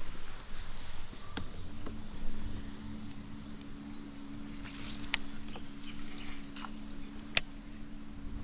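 Small electric trolling motor humming steadily on a kayak, switching on about two seconds in. A few sharp knocks come on top of it.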